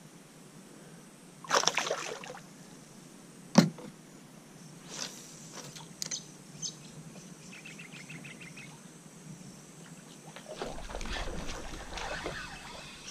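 Handling noises aboard a fishing kayak: a loud scrape, a sharp knock on the hull, a few small clicks and a quick run of ticks, then from about ten seconds in a low rumble of wind buffeting the microphone over lapping water.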